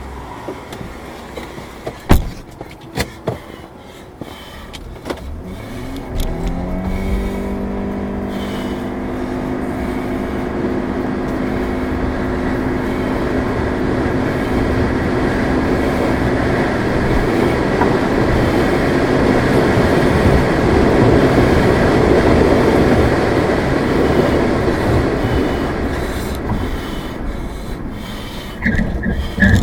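A car driving, heard from outside the car: a few sharp knocks in the first seconds, then the engine note rises as it pulls away and holds steady while road and wind noise builds up and eases off. A cluster of sharp knocks and clatter comes near the end.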